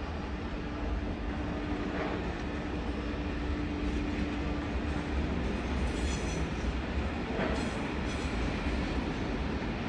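A train moving through the station with a steady low rumble. A steady hum fades out about halfway through, and brief high wheel squeals come twice near the end.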